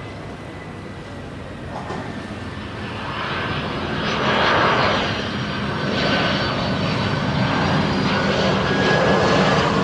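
Jet airliner engines running with a steady high whine over a dense rush, growing louder from about three seconds in and staying loud.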